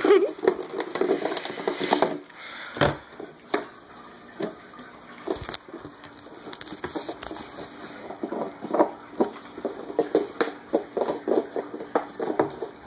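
Plastic water bottle crinkling and clattering as a puppy plays with it: irregular quick clicks and knocks, busier in the second half.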